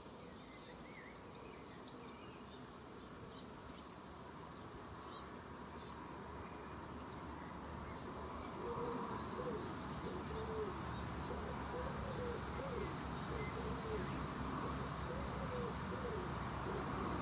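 Small garden birds chirping in quick runs of very high-pitched notes, with a lower wavering call joining about halfway through.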